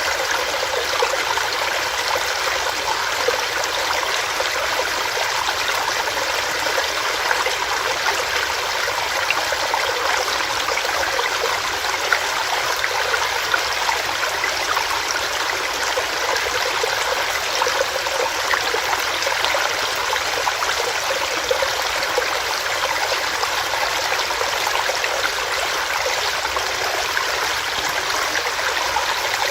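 Small rocky stream running steadily, water splashing and gurgling over stones.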